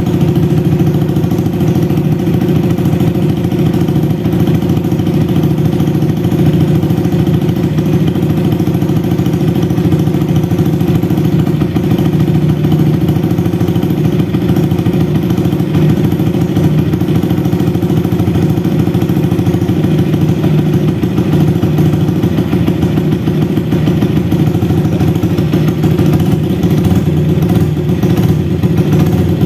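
Yamaha R15's single-cylinder, liquid-cooled engine idling steadily, kept running while the radiator is filled with coolant after a water-pump seal repair.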